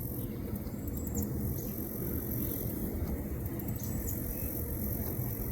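Steady low rumbling noise, with two short high chirps, one about a second in and one about four seconds in.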